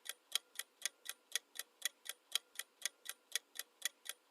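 Clock-ticking sound effect used as a quiz countdown timer, about four even ticks a second alternating louder and softer, while the answer time runs out.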